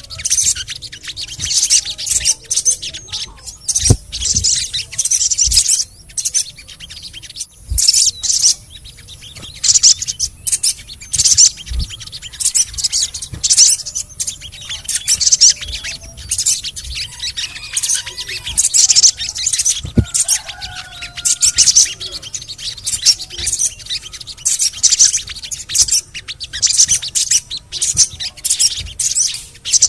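Olive-backed sunbird (sogon) song: rapid, high chirps and twitters in dense bursts with short pauses, played as a lure call to get caged sogon birds to sing.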